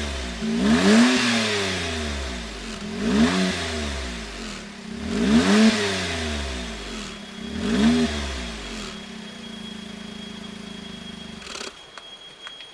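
Suzuki Hustler MR52S's turbocharged three-cylinder kei engine, breathing through a Kakimoto GTbox 06&S aftermarket muffler, blipped four times in quick free revs a couple of seconds apart. It then settles to a steady idle before the sound drops away near the end.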